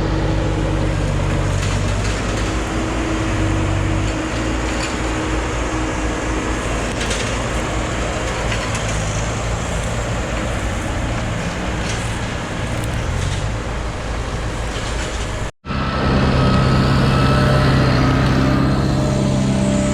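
Heavy machinery diesel engines running steadily, with a short break about three-quarters of the way through, after which a steady engine note returns.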